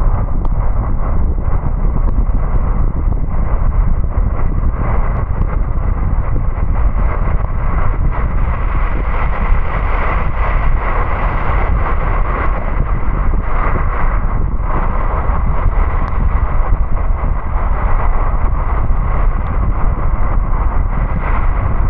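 Car driving on a wet road: a steady low rumble with the hiss of tyres on wet tarmac.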